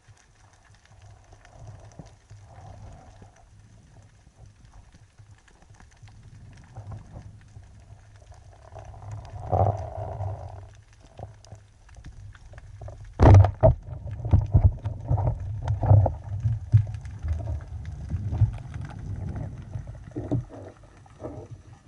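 Underwater sound: a low rumble of moving water with scattered knocks and clicks, then a sharp loud crack about thirteen seconds in, followed by a run of irregular knocks.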